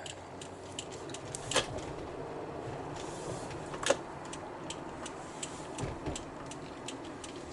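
Steady vehicle running noise with a rapid series of regular faint ticks, and two louder sharp clicks about a second and a half and four seconds in.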